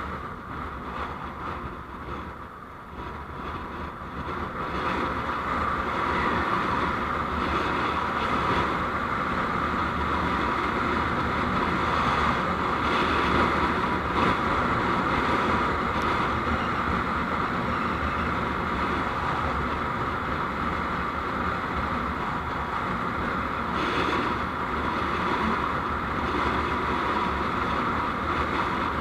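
Steady road and engine noise of a moving vehicle, picked up by a dashcam; it dips briefly a couple of seconds in, then rises and holds steady.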